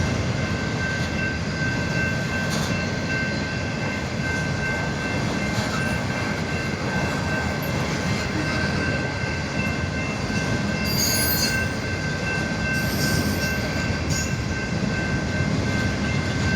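Norfolk Southern freight train rolling past while slowing down: a steady rumble of wheels and cars with a thin continuous high squeal over it, and brief hissy flares near the middle.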